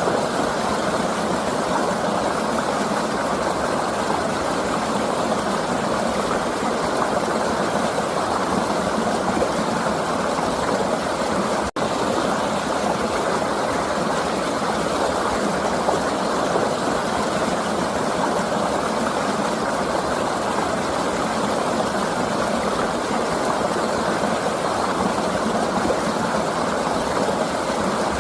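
River water flowing steadily: a continuous, even rushing noise, with a momentary dropout about twelve seconds in.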